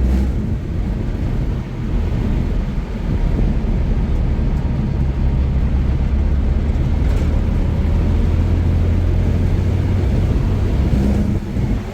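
Steady low rumble of a car on the move, with engine and road noise and some wind buffeting the microphone.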